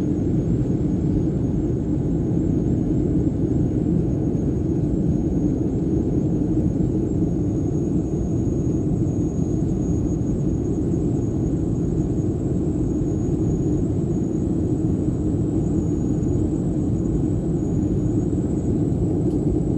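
Aircraft engine and airflow noise during the climb after take-off: a steady rumble with a thin high whine above it.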